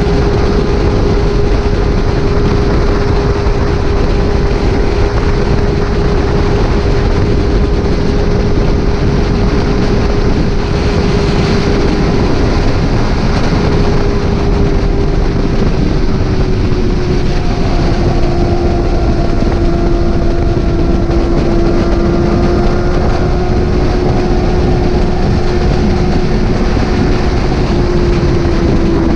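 Motorcycle engine running at a steady road speed under heavy wind rush. The engine note slowly eases lower over the last ten seconds or so.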